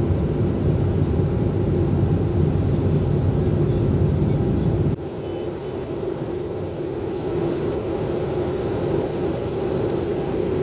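Airplane cabin noise: the steady rumble of engines and airflow, with a constant hum running through it. About five seconds in the low rumble drops suddenly, then slowly builds back up.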